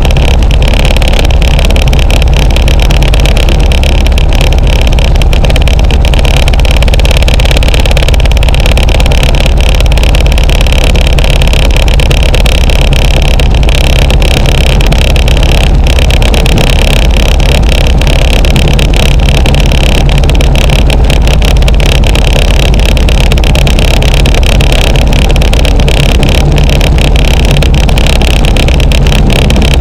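Luscombe light aircraft's piston engine running steadily on the ground, a loud, even drone with no change in speed.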